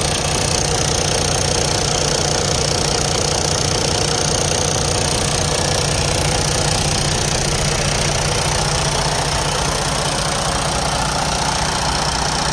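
Detroit Diesel DD15 inline-six diesel engine idling steadily, with the noise the owner puts down to a failing fuel pump.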